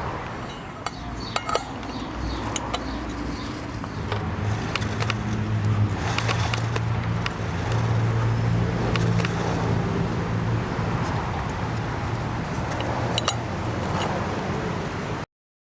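Scattered clicks and light metallic rattling, typical of a new motorcycle roller chain being handled, over a low steady hum that swells in the middle. The sound cuts off suddenly near the end.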